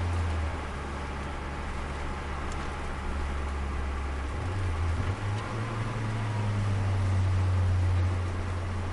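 Turbocharged Nissan Micra's engine heard from inside the cabin, running with a steady low drone down a straight. About five seconds in it briefly changes, then runs on a little higher in pitch.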